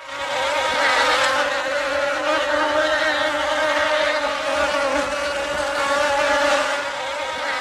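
A honeybee colony swarming over open hive frames, thousands of bees buzzing together in a dense, steady hum.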